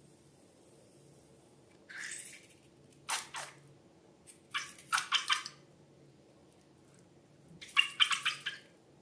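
Slime squishing and crackling wetly in four short bursts, the longest two near the middle and near the end.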